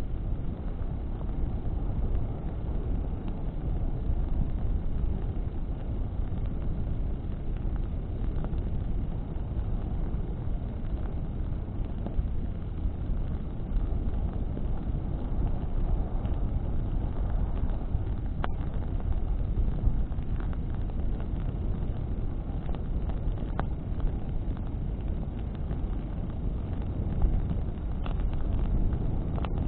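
Bonfire burning in strong wind: a steady low rumble of wind and flame, with scattered faint crackles of burning branches and one sharper pop about two-thirds of the way through.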